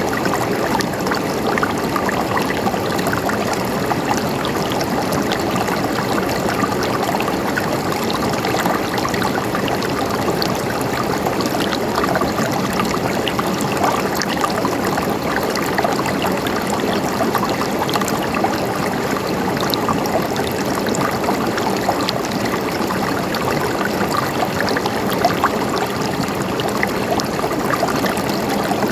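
Mountain stream flowing and gurgling steadily over rocks, with small splashes throughout.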